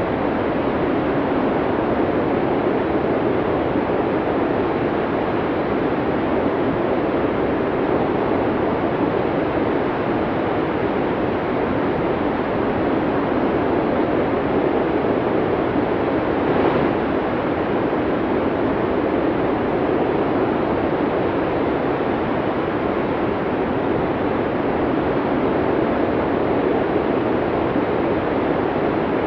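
Snowstorm wind blowing steadily as a dense, even rushing noise, with a brief slightly louder moment about two-thirds of the way through.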